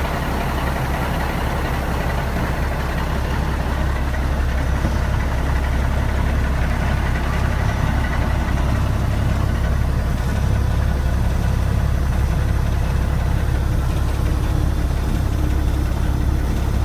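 1984 Ford winch tractor truck's engine idling steadily, a deep even rumble with no revving.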